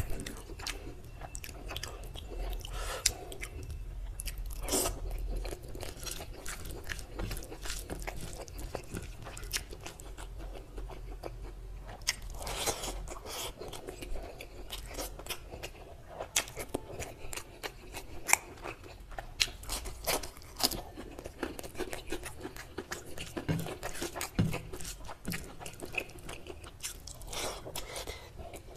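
Close-miked chewing of mouthfuls of rice and mutton curry, with many irregular crunches and sharp mouth clicks, and fingers working rice on a plate.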